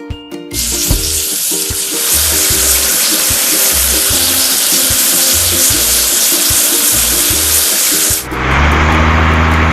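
Water spray hissing steadily as a vehicle is washed, starting about half a second in and cutting off after about 8 s. It gives way to a lower, duller hiss with a hum near the end. Background music with a steady beat plays throughout.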